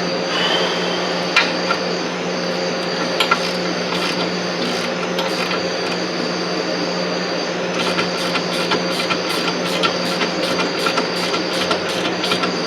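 Hand tools working on the car, giving scattered metal clicks and knocks, with a quicker run of clicks near the end, over a steady electrical hum.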